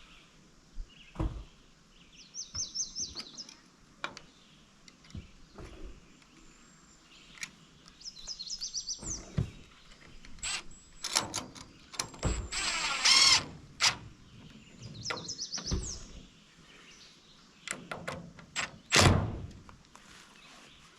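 Irregular knocks and thuds of wood and wire being handled during coop construction, with a longer noisy rasp about twelve seconds in, and short bursts of bird chirps three times.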